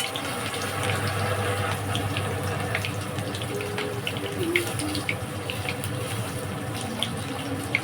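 Tap water running steadily into a kitchen sink, with small clicks and knocks.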